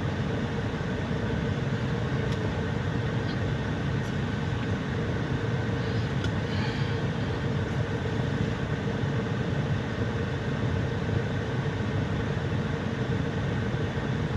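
Steady low drone of a parked semi truck's running machinery heard inside the cab, with a constant hum and no change in pitch.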